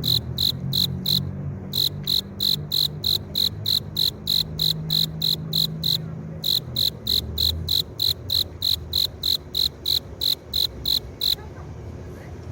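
Male cricket calling by rubbing its forewings together, a string of short, evenly spaced chirps about three a second, with two brief pauses, stopping about eleven seconds in. This is the song a male makes to attract a female.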